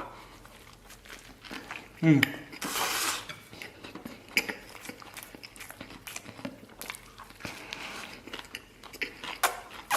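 A man biting into a rou jia mo, a bun stuffed with garlic lamb, and chewing with small wet mouth clicks. A short hum about two seconds in and a brief rustling crunch about a second later.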